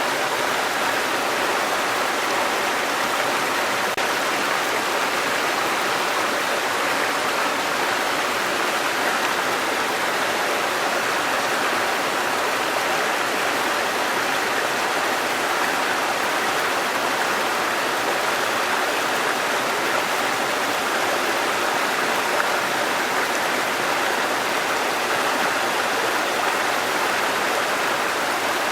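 Waterfall: falling water making a steady, even noise with no breaks or changes.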